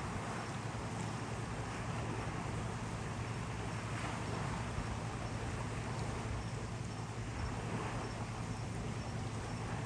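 Strong wind of about 22 knots blowing steadily, an even rushing hiss with a low rumble beneath.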